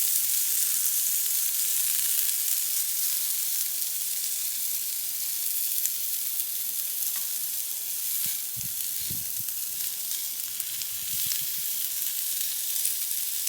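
Frozen vegetarian chicken strips frying in a pan: a steady sizzle, with a few soft low bumps about two-thirds of the way through.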